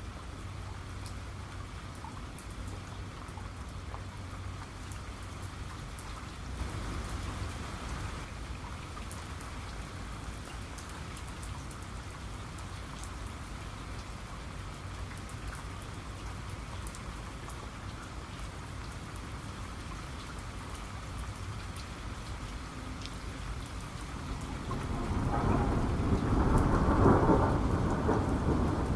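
Steady rain falling, with scattered individual drops ticking. A short low rumble swells about seven seconds in, and near the end a rolling peal of thunder builds up and becomes the loudest sound.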